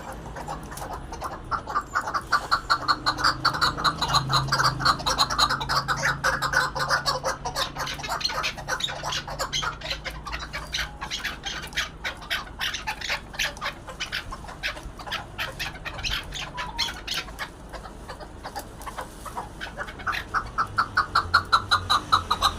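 Chukar partridge calling: a long run of rapid, repeated clucking notes, several a second, growing louder about two seconds in and again near the end.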